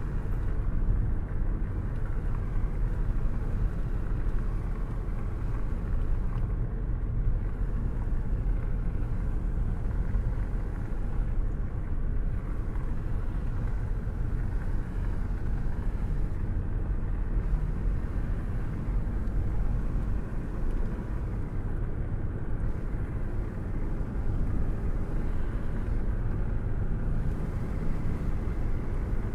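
Steady rain in an even, muffled hiss over a constant deep rumble, with no separate thunderclaps.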